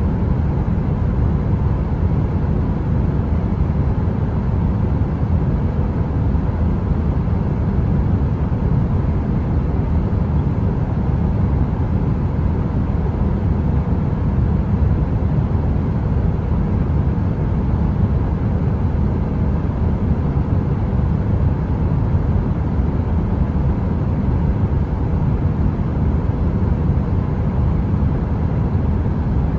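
Electric heater's fan running with a steady, deep rushing noise and a faint hum; it does not change.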